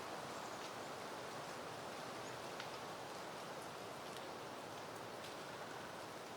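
Soft, steady wind rustling through peony plants, with faint scattered ticks here and there.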